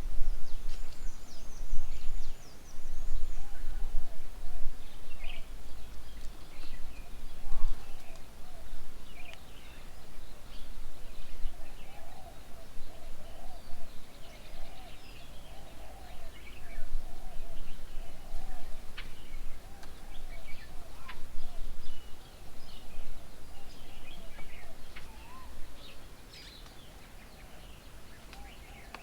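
Several birds chirping and calling, with many short high chirps and a run of lower warbling calls, over a steady low rumble of background noise.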